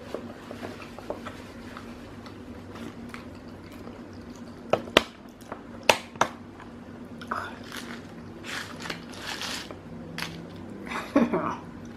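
Close-up biting and chewing of a fast-food burger with fries stacked on it, with a few sharp crunchy clicks midway and near the end.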